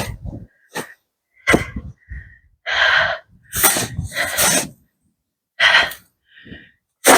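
A person breathing hard in short, irregular bursts while struggling through deep, wet, heavy snow.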